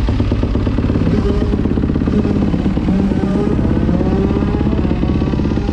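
2019 Kawasaki KX450F's single-cylinder four-stroke engine through a Pro Circuit full exhaust, running at a steady idle just after being started with the pipe still cold.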